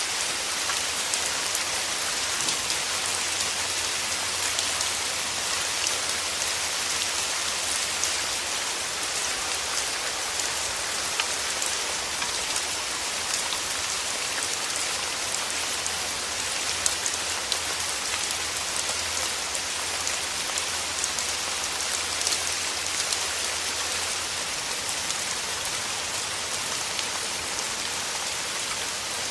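Steady rain, with many individual drops pattering close by over an even hiss, and a faint low hum that fades out near the end.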